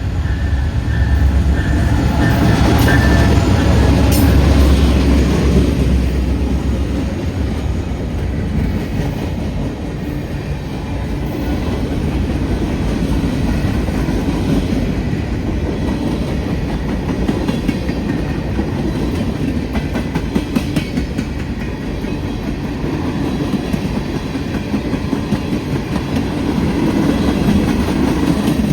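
A freight train passing close by, headed by three diesel locomotives. A heavy engine rumble over the first several seconds gives way to a steady rolling noise of the freight cars, with wheels clicking over the rail joints.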